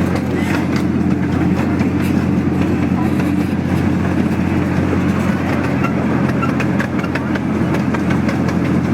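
Park miniature train running, heard from on board: a steady engine drone with light clicks and rattles from the wheels and cars on the track.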